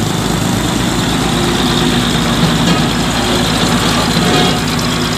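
Heavy truck's diesel engine idling steadily with an even low throb.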